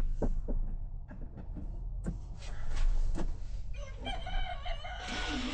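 A few light knocks and taps, like a board and screws being handled, then a wavering pitched call lasting about a second and a half from about four seconds in.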